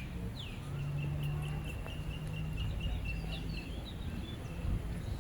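Birds calling: a downward-sweeping whistle, then a quick run of short, evenly spaced high notes, over a low steady hum.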